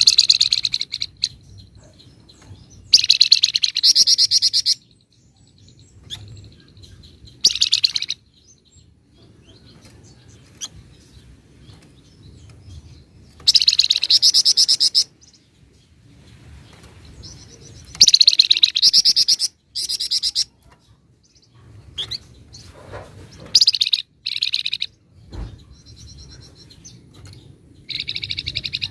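Flamboyan songbird singing in repeated bursts of rapid, high trilling ('ngebren'), each a second or two long, with pauses of a few seconds between.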